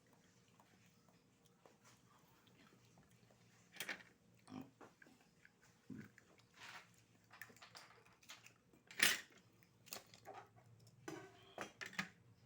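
A person eating raw oysters: scattered wet mouth smacks and sharp clicks as the oyster is slurped and chewed. The sounds begin about four seconds in, and the loudest comes about nine seconds in.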